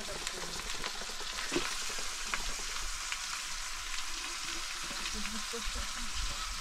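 Food frying in hot oil: a steady sizzle, with a few faint clicks through it.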